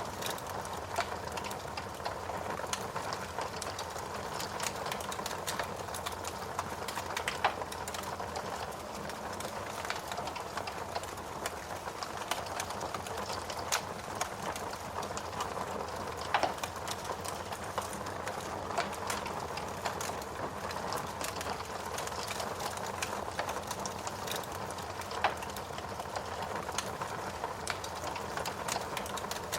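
Fire burning in a fireplace: a steady hiss with scattered crackles and a few sharper, louder pops spread through.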